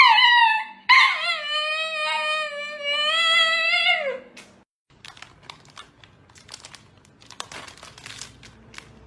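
A dog howling. A short cry falling in pitch is followed by one long howl held at a steady pitch that slides down and stops about four seconds in. Faint rustling and clicks follow.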